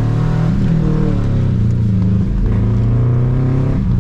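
Subaru Impreza 2.5 RS's flat-four engine pulling hard under autocross driving, its revs falling through the first second, then rising and changing again as the driver works the throttle.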